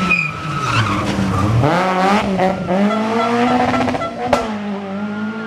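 Rally car engine at high revs, the pitch climbing steeply and dropping back with each gear change. A single sharp crack comes about four seconds in.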